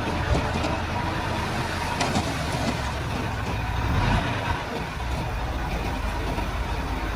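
Komatsu D31-P bulldozer's diesel engine running steadily under work, swelling briefly in loudness about four seconds in.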